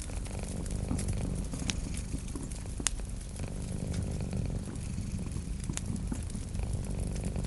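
Wood fire crackling, with a few sharp pops, over a cat's steady low purr.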